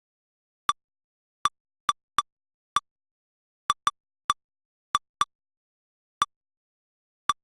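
Short identical electronic blips, about a dozen at uneven intervals with dead silence between them. They are the synthetic alert sound of lightning-detector software replaying its strike history, one blip per detected strike.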